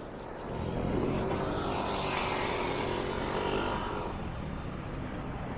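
A motor vehicle's engine passing close by over steady street traffic noise, swelling about half a second in and easing off after about four seconds.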